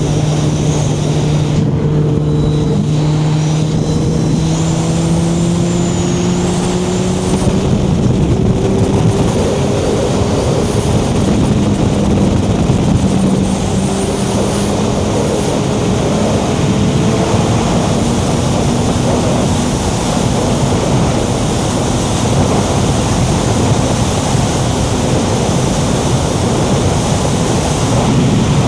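Suzuki Hayabusa's inline-four engine running at road speed under heavy wind rush, its pitch rising slowly over the first ten seconds or so as it gathers speed, then holding steady.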